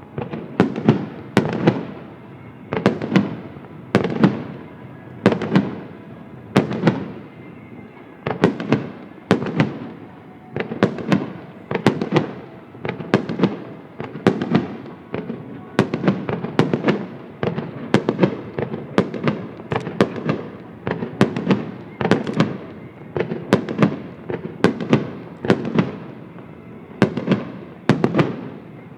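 Aerial firework shells bursting in quick succession, one to two sharp bangs a second, each trailing off in a rumbling echo.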